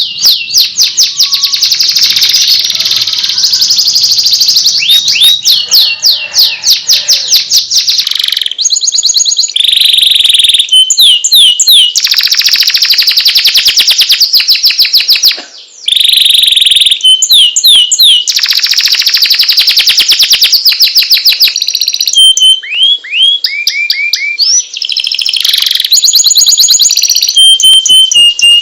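Domestic canary singing a long unbroken song: loud, rapid trills of repeated notes that change to a new phrase every second or two, mixed with short steady whistles and rising glides, with one brief pause about halfway.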